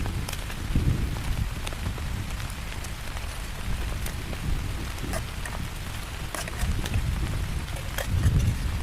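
Heavy rain falling steadily, with scattered sharp drops striking close by, over a low rumble of strong wind that swells about a second in and again near the end.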